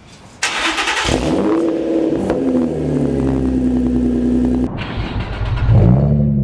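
Infiniti G35's 3.5-litre V6 revved hard through an aftermarket exhaust: a sharp rev about half a second in whose pitch falls back over a few seconds with crackles and pops on the overrun, then, near the end, another rev that settles to a steady idle.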